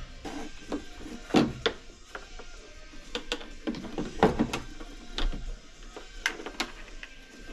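Irregular clicks and knocks of hard plastic parts being handled as two large batteries are fitted into the hull of a Pro Boat Sonicwake 36 RC boat.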